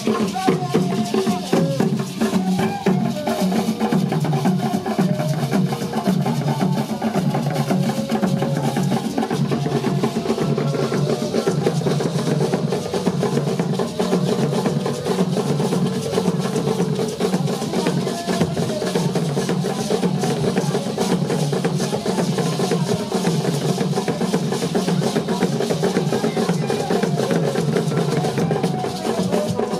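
Music led by drums and percussion, with a fast, steady beat throughout.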